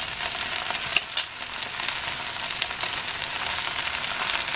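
Tofu sisig sizzling in a frying pan while a metal spatula stirs mayonnaise through it. A couple of sharp clicks of the spatula against the pan come about a second in.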